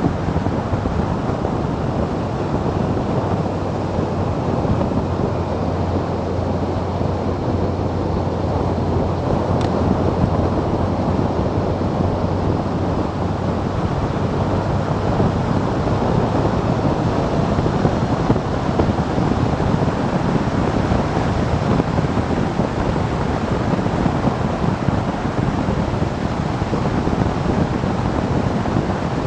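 Wind rushing over the microphone of a camera on a moving motorcycle, with the motorcycle's engine and road noise underneath. A steady low engine hum fades out about halfway through.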